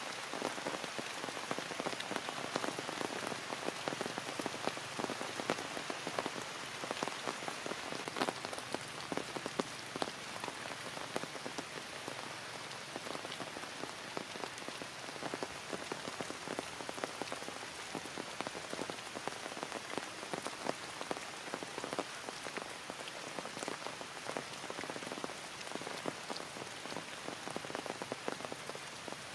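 Heavy rain falling steadily: a dense hiss made of countless individual drop hits.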